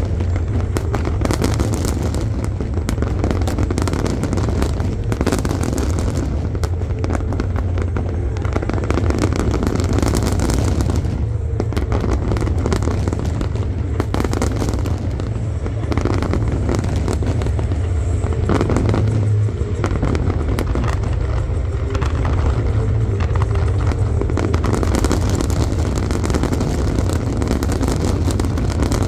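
Aerial fireworks barrage: many shells bursting at once, their bangs and crackles running together into a steady, loud rumble.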